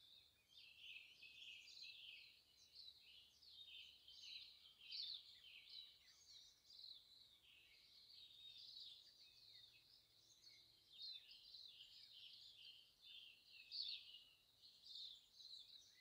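Faint birdsong: several birds singing and chirping at once in a continuous chorus of quick, high notes.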